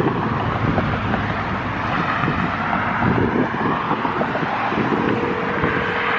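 Steady outdoor rushing noise, with wind on the microphone and passing road traffic. About five seconds in, a phone ringback tone starts and holds for about two seconds as a call rings out.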